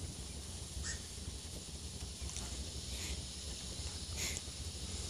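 Outdoor ambience: a steady low wind rumble on the microphone, with a few short, harsh, high-pitched bird calls spaced a second or so apart.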